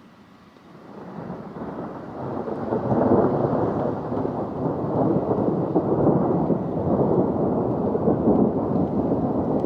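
Rolling thunder that swells up about a second in, then rumbles on loud and unbroken.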